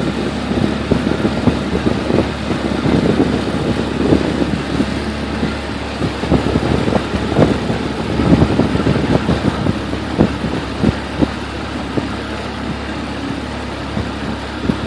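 Motorboat engine running steadily under way, with many short, irregular thumps over it, most of them in the middle stretch.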